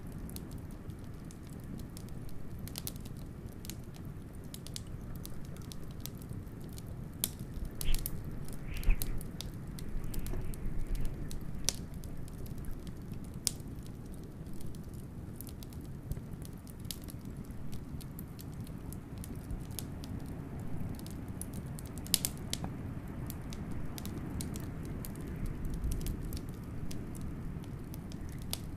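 Wood fire crackling with frequent sharp pops, a few louder snaps about eight seconds in and again past twenty seconds, over a steady low rumble of blizzard wind.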